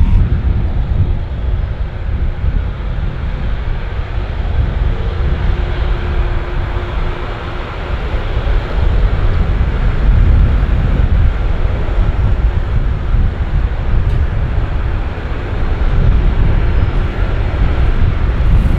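Jet airliner passing low overhead on approach to land, a loud, steady rumble of its engines. Wind buffets the microphone.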